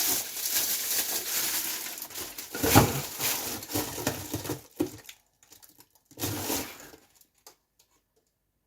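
Close rustling and crinkling handling noise with a sharp knock about three seconds in, thinning to a few small clicks and a short final rustle, then the sound drops out completely near the end.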